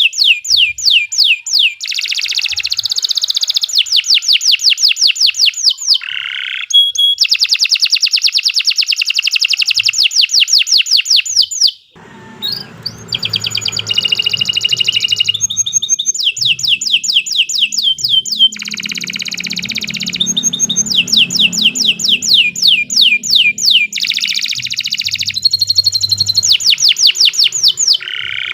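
Domestic canary singing a long, continuous song made of rapid trills of repeated high notes, one roll running straight into the next, with a brief pause about twelve seconds in.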